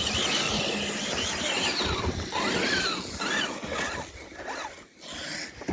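Radio-controlled crawler trucks' electric motors and gears whining, rising and falling in pitch as the throttle comes on and off, over a rough rumbling noise. The sound thins out about four seconds in and drops almost to quiet near the end.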